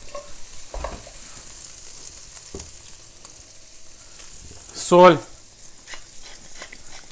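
Precooked shrimp sizzling in hot vegetable oil in a wok: a steady frying hiss. About five seconds in there is a short spoken word.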